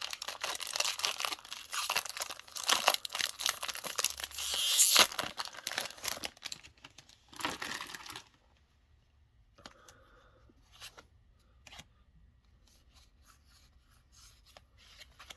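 A foil Pokémon booster pack wrapper being torn open and crinkled, loudest about five seconds in. Quieter rustling follows, then faint clicks of the cards being handled.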